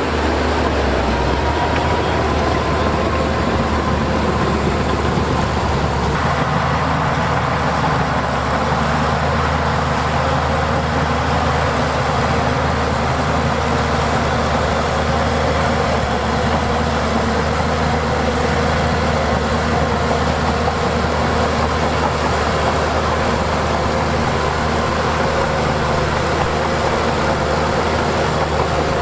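Diesel engine of heavy earthmoving equipment running steadily, its note shifting slightly about six seconds in.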